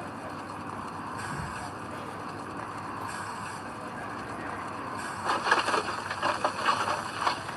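Heavy earthmoving machinery running steadily, with a run of irregular clattering knocks starting about five seconds in.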